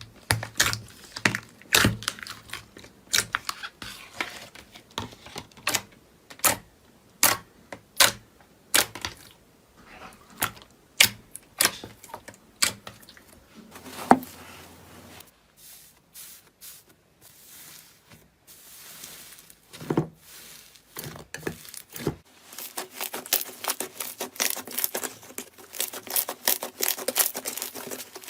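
A crunchy material being pressed and crushed by hand: sharp, irregular snaps and clicks, a quieter spell past the middle, then dense fast crackling near the end.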